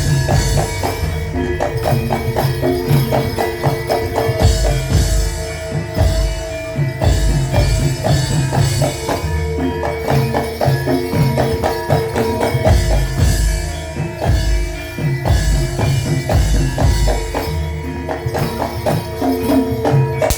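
Live imblig ensemble, the Wonosobo percussion music for kuda lumping dancing, playing a fast driving rhythm: quick strokes on pitched percussion with ringing tones over repeated deep drum hits.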